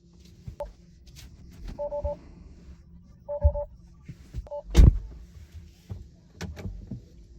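Short two-note electronic beeps sounding four times, some as quick triple pips, among scattered clicks and knocks, with one loud thump about five seconds in.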